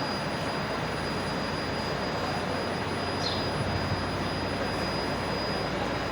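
A steady mechanical running noise with a thin, high, steady whine over it.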